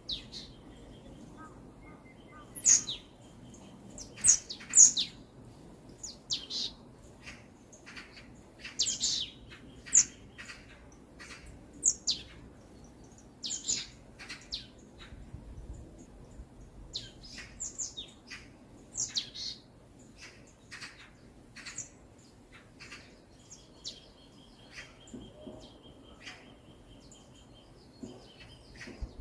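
Forest birdsong: several small birds chirping and calling in short high notes, a few every second, with a long steady high note near the end.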